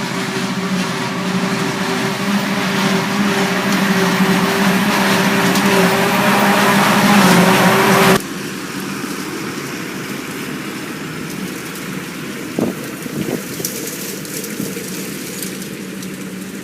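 Heavy farm machinery engines working at silage harvesting, running steadily and growing louder over the first eight seconds, then dropping abruptly to a quieter steady hum.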